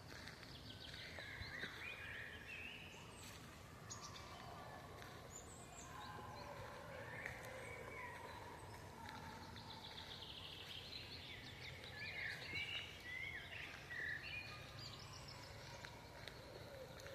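Faint forest birdsong: several birds chirping and warbling in short overlapping phrases, busiest about ten to fifteen seconds in, over a steady low background hum.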